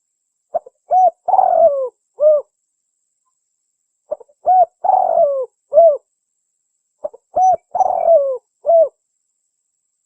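Spotted dove cooing: three phrases about three seconds apart, each a short note and a few coos with a longer, falling coo in the middle.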